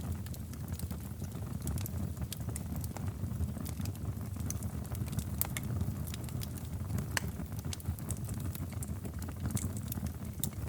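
Wood fire burning in a fireplace: many irregular crackles and sharp pops over a low, steady rumble of the flames, with a few louder pops near the middle.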